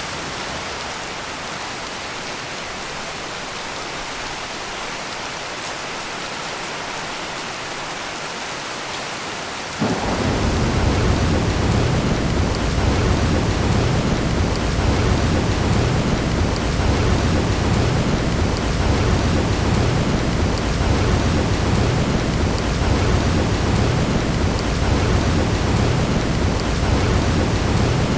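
Steady heavy rain, joined suddenly about ten seconds in by a deep, continuous rumble of thunder that is louder than the rain.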